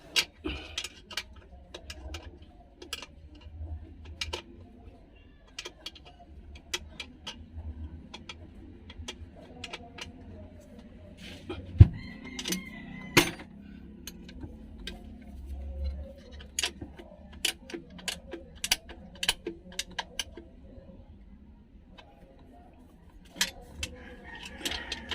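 Irregular metallic clinks, taps and knocks of hand tools and parts being handled during work on a diesel engine, with one sharper knock about halfway through. The engine is not running.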